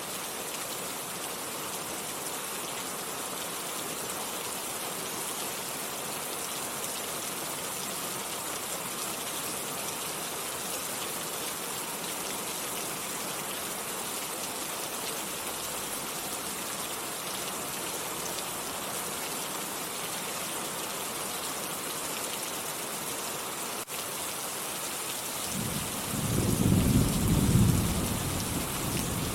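Steady rain falling, an even hiss. Near the end a low rumble of thunder rolls in and becomes the loudest sound.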